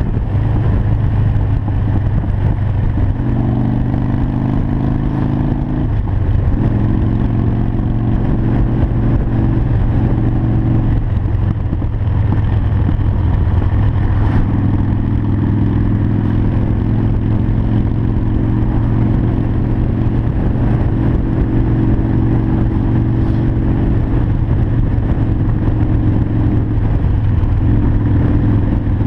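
Harley-Davidson Sportster 1200 Custom's air-cooled V-twin running at cruising speed on the highway, its steady low note shifting slightly with throttle several times, with wind noise over it.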